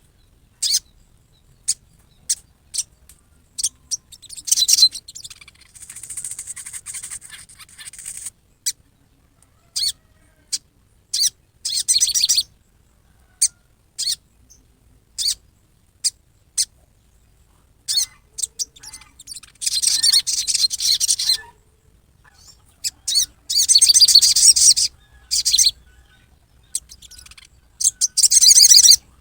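Sogon bird's harsh 'riwikan' calls: short sharp chips repeated at uneven intervals, broken by several longer bursts of rapid, rough chatter. This is the agitated, aggressive call that keepers use to provoke another sogon into calling.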